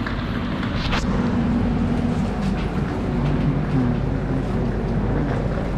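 Train at a station platform: a steady engine rumble with low droning tones that shift slightly in pitch.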